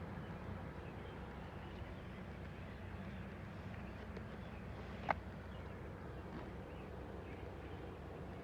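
Garden ambience after rain: a steady low background rumble with a faint hiss, and a single sharp tick about five seconds in.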